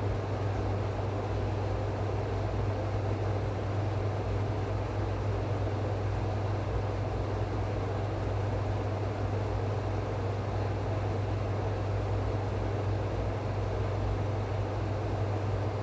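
A steady low hum over an even rushing noise, unchanging throughout, with no separate events.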